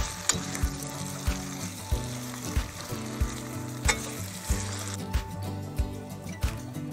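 Chicken, potato and ground masala sizzling in a stainless steel pan as a steel spoon stirs them, the spoon clicking sharply against the pan twice. Background music with a steady beat plays under it.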